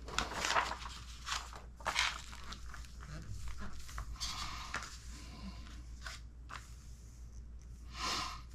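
Plastic kit parts bag being handled and torn open, crinkling, with scattered light clicks of small parts.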